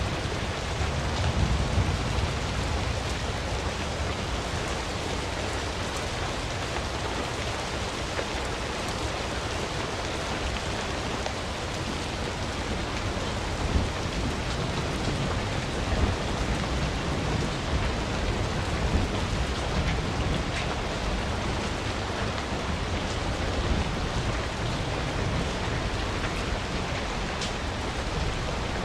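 Campfire burning: a steady hissing crackle with a low rumble underneath and a few louder pops.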